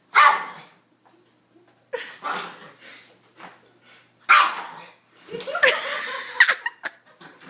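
Dog barking in short loud bursts a few times, then a longer run of barking and yipping near the end.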